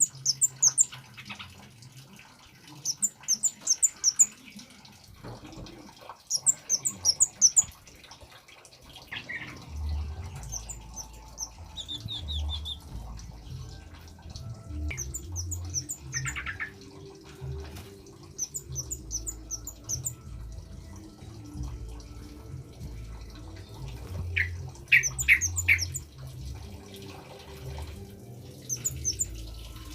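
Male kemade bird calling: bursts of rapid, high-pitched notes every few seconds, with a few lower, separate notes between them.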